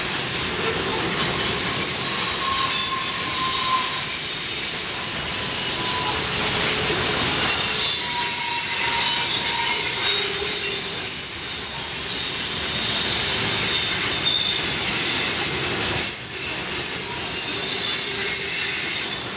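Norfolk Southern freight train's tank cars and covered hoppers rolling past, wheel flanges squealing against the rail in drawn-out high tones over a steady rumble of wheels on track. A few louder knocks come near the end.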